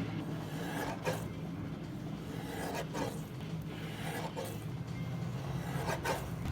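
Several short rubbing, scraping strokes, about four of them spaced a second or two apart, over a steady low hum.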